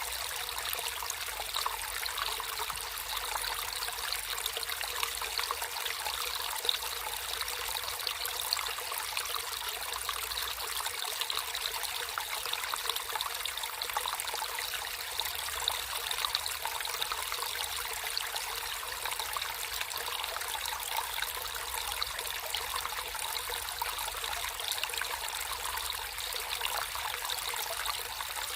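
Water in a small natural stream trickling steadily, an even, fine-grained flow with no let-up.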